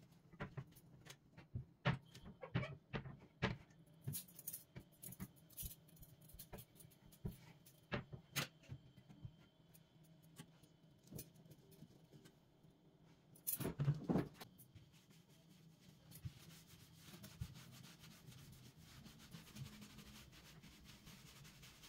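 Objects being handled and set down: scattered light clicks and knocks, a louder clatter about fourteen seconds in, then a faint steady hiss.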